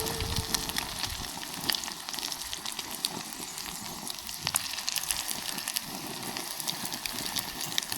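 Food frying in a hot pan: a steady sizzle with irregular sharp pops and crackles.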